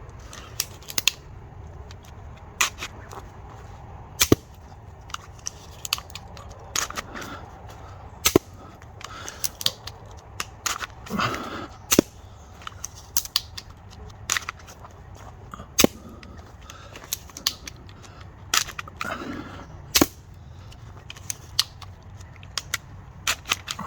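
A 3D-printed pump-action repeating crossbow pistol shooting 6mm crossbow bolts off rubber bands: many sharp snaps and clacks at irregular intervals, with a few short rasping sounds between shots.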